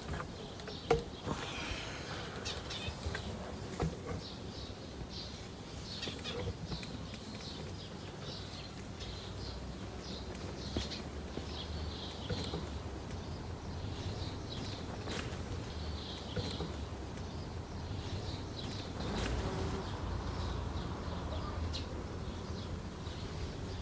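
Garden ambience: small birds chirping on and off, with a few light knocks in the first few seconds and a low rumble underneath.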